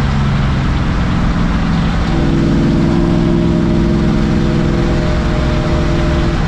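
Car's V engine and exhaust running on the road: the engine note settles and then steps up about two seconds in and holds steady. The exhaust still has a leak, which the owner places at the driver's-side header gasket.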